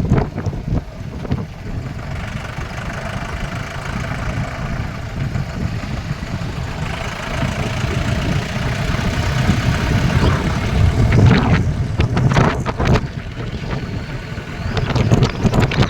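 An engine running steadily under low rumbling noise, with a few sharp knocks about eleven to thirteen seconds in.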